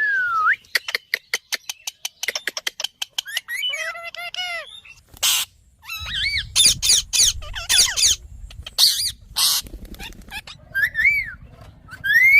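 Indian ringneck parakeet vocalizing: a fast run of clicks, then warbling calls that glide up and down in pitch, broken by several loud harsh screeches from about five seconds in.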